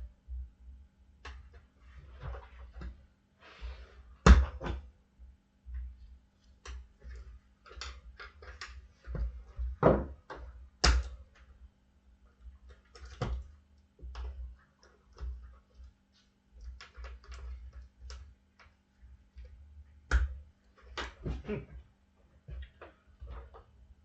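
Tire irons and clamps knocking and clinking against a dirt bike rim as a tire bead is levered over it, with irregular thuds and scrapes and a few sharp knocks.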